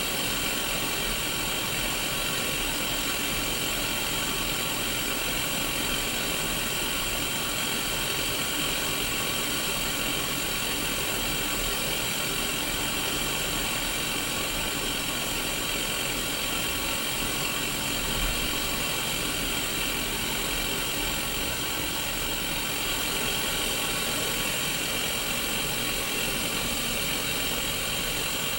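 Untuned TV static from a Sony Mega Watchman mini CRT television's speaker: a steady, even hiss with a faint buzz running through it.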